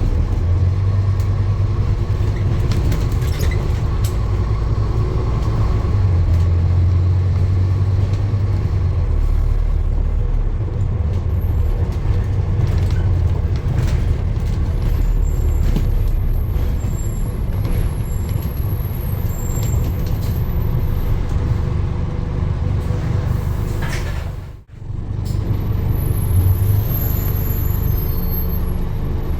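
Low, steady rumble of a running vehicle, cutting out sharply for an instant near the end.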